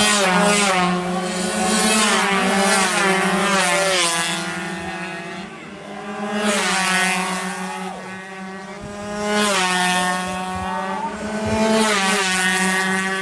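Two-stroke 116cc underbone racing motorcycles passing at full throttle. Their engines swell and fade about five times as bikes go by.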